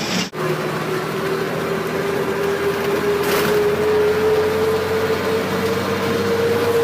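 Bus engine and road noise heard while riding, with a steady drone slowly rising in pitch as it gathers speed; a brief dropout just after the start.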